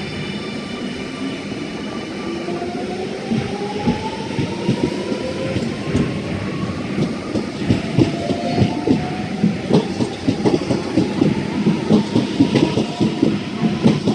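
Electric passenger train accelerating: its traction motors give a whine that rises in pitch, while the wheel clatter over the rail joints grows louder and busier.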